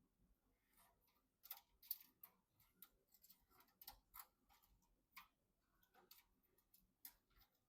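Faint, irregular clicks and taps of computer components and small parts being handled and fitted together by hand.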